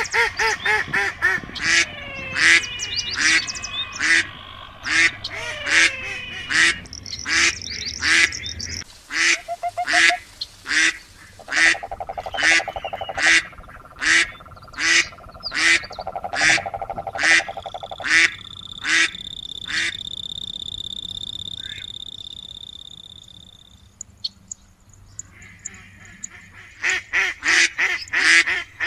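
Ducks quacking in a long series of short calls, about two a second, dropping off for a couple of seconds near the end before starting again.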